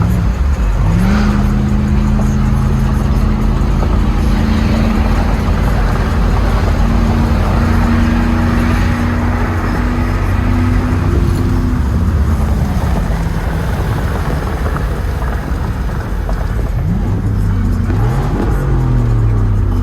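Car engine held at high, steady revs for about eleven seconds, then revved up and let back down near the end.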